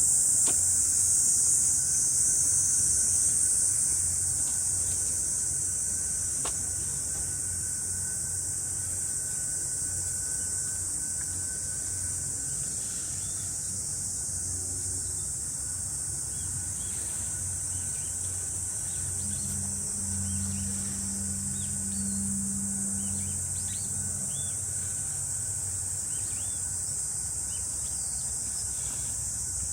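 A steady, high-pitched buzzing chorus of summer cicadas, a little louder in the first few seconds. Underneath runs a low hum, with faint short chirps in the second half.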